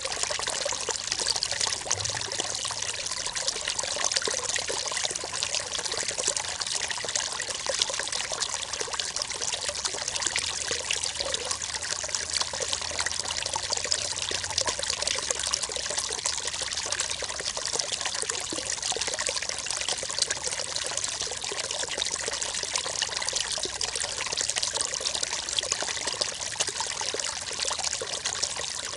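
River water running and trickling over rocks, a steady splashing babble with no let-up.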